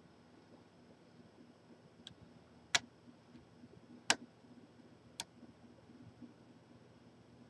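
Three sharp clicks about a second apart, the first two loudest, with a fainter tick just before them.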